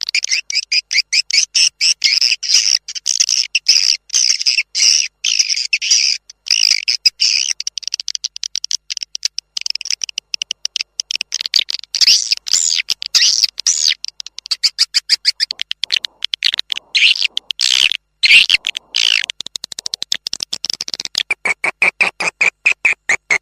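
Swiftlet lure recording: swiftlet calls played back as dense, rapid twittering chirps with brief pauses, turning to a steadier chirring trill near the end. It is a playback call used to draw swiftlets into a nesting house.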